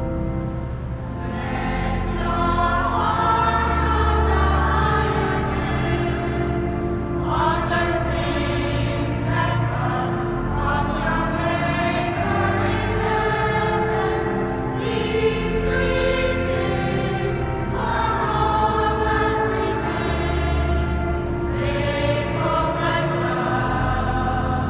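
Mixed choir singing a sacred choral piece over sustained organ chords in a cathedral.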